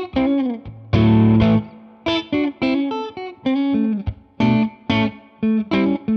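Electric guitar played through a Jeds Peds Bird Strike preamp pedal, a clone of the Hudson Broadcast, with a light overdriven tone. A chord is struck about a second in and rings briefly, followed by a run of short picked notes and chords with a few bends.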